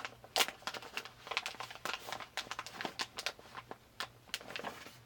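Packaging being handled: irregular crinkling and rustling with sharp little crackles, as items are taken out of a travel grooming kit.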